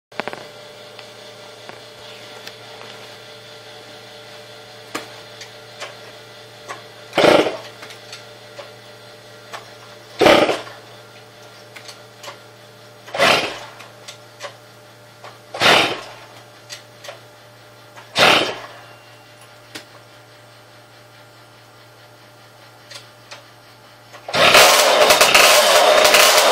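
Tomos Sprinter moped's two-stroke single-cylinder engine being turned over five times, about three seconds apart, each a short loud burst that does not catch, over a steady low hum. About 24 seconds in the engine fires and runs loudly.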